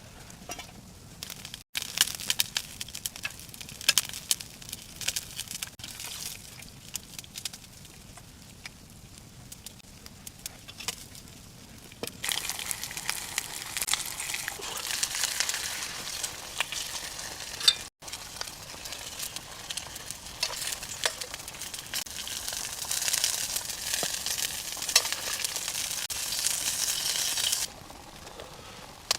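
Food sizzling and crackling as it cooks over a wood fire, with frequent sharp pops. The sizzle grows louder and hissier about twelve seconds in, then cuts off abruptly near the end.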